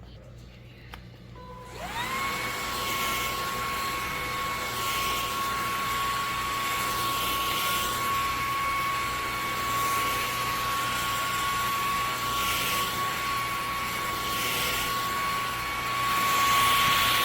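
Levoit LVAC-200 cordless stick vacuum switched on: about two seconds in its motor spins up with a quickly rising whine, then runs steadily with a high whine over airflow hiss that swells and eases about every two seconds.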